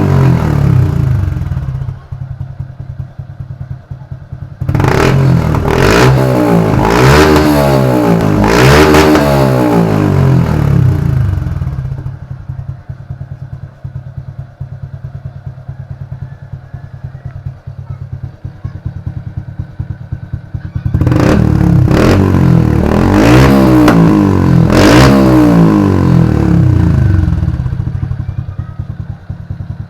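125 cc fuel-injected motorcycle engine with an aftermarket Podium power-pipe exhaust, idling with a steady low note. It is revved in two bursts, about five seconds in and again about twenty seconds in, each a run of several throttle blips whose pitch rises and falls.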